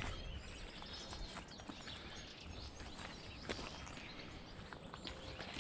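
Footsteps on an outdoor path: soft, irregular steps over a faint outdoor background.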